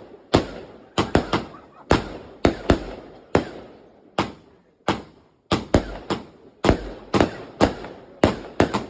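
Prestigious Pyrotechnics 'Lightning Storm' firework going off: a rapid, irregular string of about twenty loud bangs, often two or three close together, each trailing off in an echo, with a brief pause a little past the middle.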